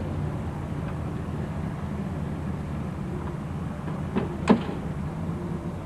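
Large sedan's engine running at low speed as the car rolls to a stop, a steady low hum. Near the end come two short clicks, the second one sharp and louder.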